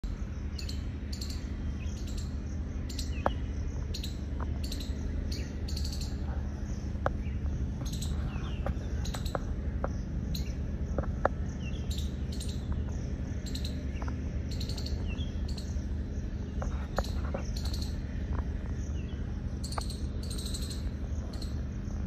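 Small birds chirping: short, high calls repeating every half second to a second, over a steady low background hum.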